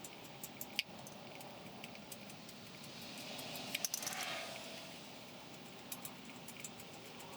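Scattered light metallic clicks and clinks of tools or brake hardware being handled, with a louder click about a second in and a small flurry of clinks over a brief rustle just past the middle.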